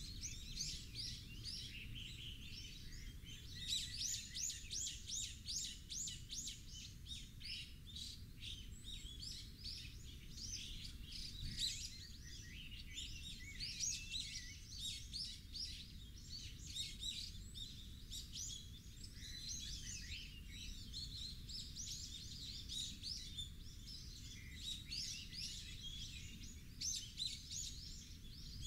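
Birds chirping continuously, many short, quick calls overlapping, over a steady low rumble.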